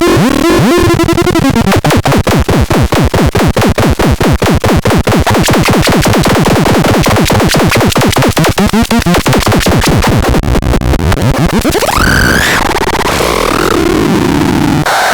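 Electronic synthesizer noise from the TUKATON SL. It opens with falling pitch sweeps, then runs as a rapid train of pulses that eases off around 10 seconds in. A pitch glide rises about 11 to 12 seconds in, and a noisy, warbling texture follows.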